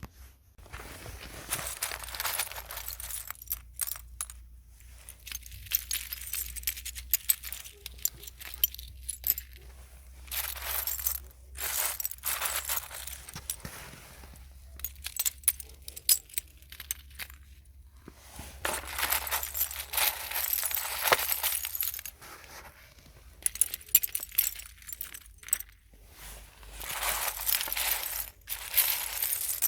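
ASMR trigger sounds: small objects handled close to the microphone in crisp bursts of two to four seconds, about seven of them, with short pauses between.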